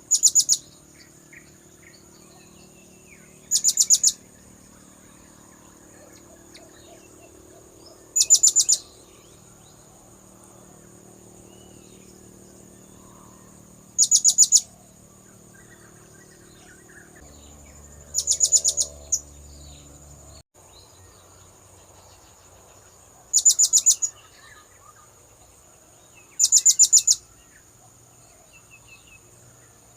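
Blue-crowned hanging parrot (serindit) lure call. Short bursts of five or six rapid, very high notes come seven times, one burst every four to five seconds, over faint background birds and insects.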